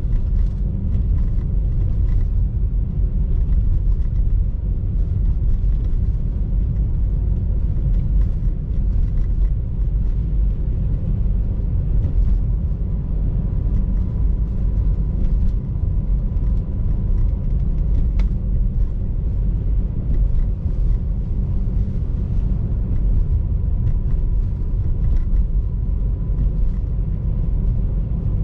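Car driving on a snowy road: a steady low rumble of engine and tyres.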